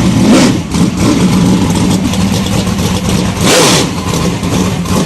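Race car engine running loud and steady, swelling briefly about three and a half seconds in.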